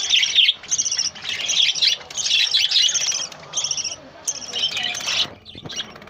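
Small pet cage birds chirping and chattering rapidly in a run of high, closely packed bursts, dying away about five seconds in.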